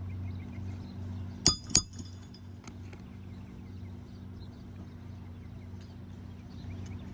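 Two sharp metallic strikes about a third of a second apart, each with a brief ring: a hammer driving a roofing nail back through an asphalt shingle. A steady low hum runs underneath.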